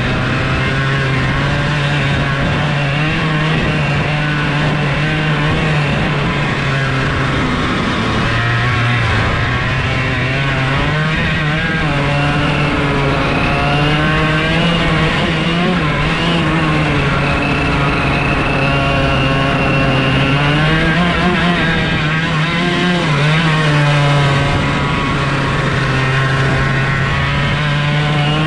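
125cc two-stroke go-kart engine running hard on the track, its pitch rising and falling as the kart speeds up and slows for corners. It drives with no gearbox and no clutch, so the engine note follows road speed directly. The note drops lower once, about eight seconds in, then climbs again.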